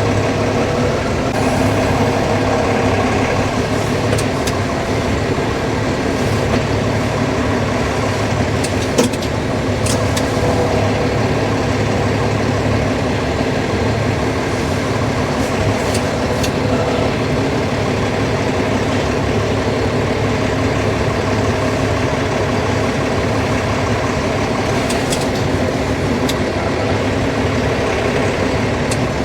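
An engine running steadily at idle, with a few light clicks and knocks over it.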